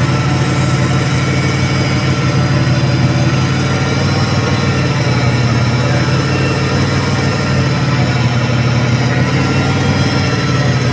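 Toyota forklift engine idling steadily at an even, unchanging speed.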